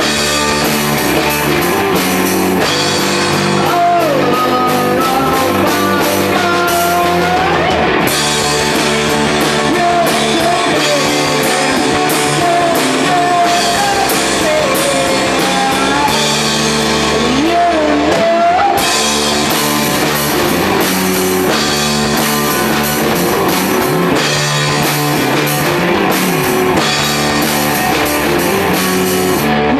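Psychedelic rock band playing: drum kit and guitars under a lead melody that slides and bends in pitch, at a steady loud level.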